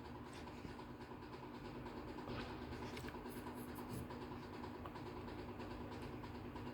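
Faint steady background hum of room tone, with a few light clicks.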